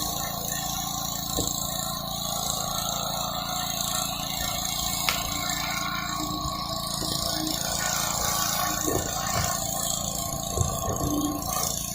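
Gas pressure washer engine running steadily under load, with the continuous hiss of the high-pressure water spray on concrete.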